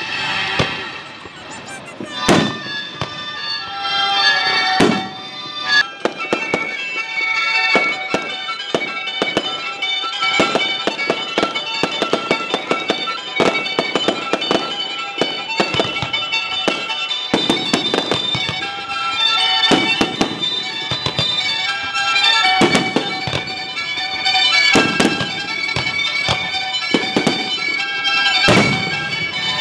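A fireworks display: shells bursting in frequent sharp bangs and crackles, heard over music with long held notes.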